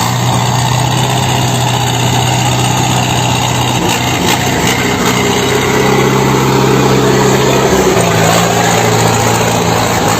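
Truck diesel engine running steadily, its pitch shifting a little about four seconds in and again about eight seconds in.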